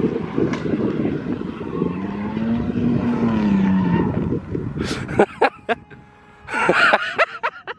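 A drifting car's engine running hard, its revs rising and falling once around the middle, then fading out about four and a half seconds in; people talk near the end.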